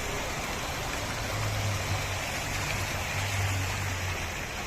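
Heavy rain falling, a steady dense hiss. A low hum joins in about a second in and fades near the end.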